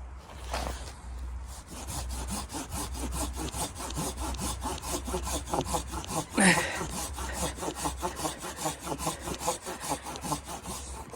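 Hand saw cutting through wood in quick, even strokes, about four or five a second. About six seconds in, one brief louder sound falls in pitch.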